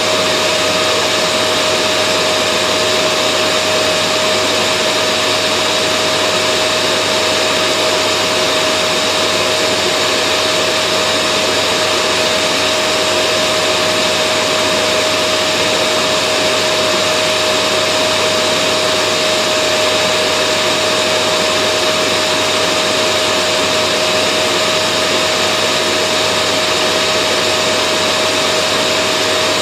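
Vacuum cleaner running steadily, a constant rush of air with a steady motor whine and no change in pitch or level.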